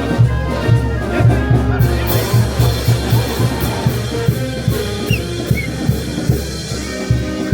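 Peruvian brass band (banda) playing, drums keeping a steady beat under held brass notes, with cymbal crashes joining in about two seconds in.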